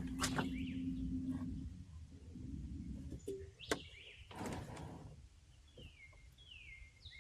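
Small electric boat motor humming steadily, then switching off under two seconds in. Birds call with short falling chirps throughout, and a few sharp knocks sound.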